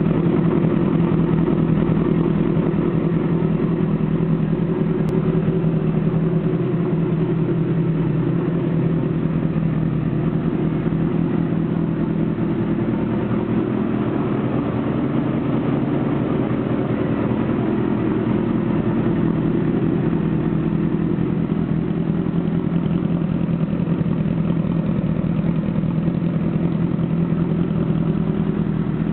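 Honda CBR1000RR Fireblade (SC59) inline-four engine idling steadily through a Jardine GP1 straight-through aftermarket exhaust.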